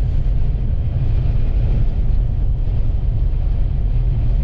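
Steady low rumble of a vehicle driving on the highway in strong wind, a mix of road noise and wind buffeting.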